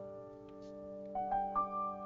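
Piano music: a held chord, with a few higher notes played about halfway through and then sustained.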